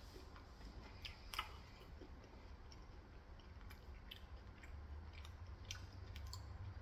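Faint chewing and mouth sounds: a few soft, scattered clicks over quiet room tone.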